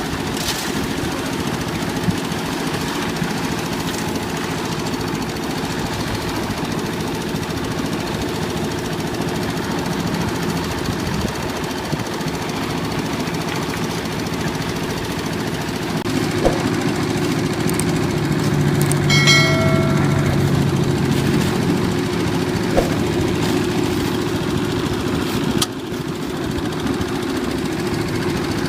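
Old diesel engine of a concrete mixer running steadily with a rapid knocking chug, getting a little louder about two-thirds of the way through. A brief high tone sounds over it just after that.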